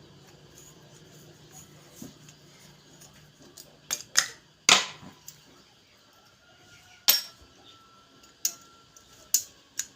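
Gas stove parts being handled and set down as the ignition assembly is taken apart: irregular sharp metallic clicks and clinks, the loudest about five and seven seconds in.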